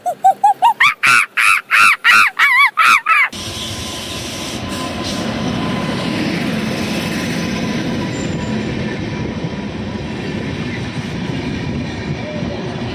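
A quick run of short pitched calls, each rising and falling, climbing in pitch. About three seconds in it is cut off by the steady rumble of a passing train.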